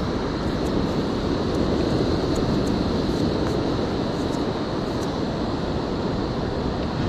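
Steady wind and surf noise, with wind rumbling on the microphone.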